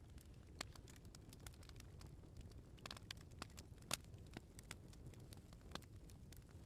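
Wood bonfire crackling: irregular sharp pops and snaps from the burning firewood, one louder pop about four seconds in, over a low steady rumble.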